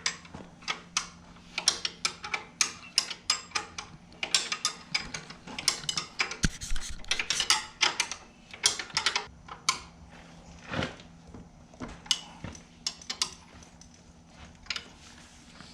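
Hand wrench working a nut tight on an ATV's chain adjuster: runs of sharp metallic clicks and clinks, with short pauses between strokes.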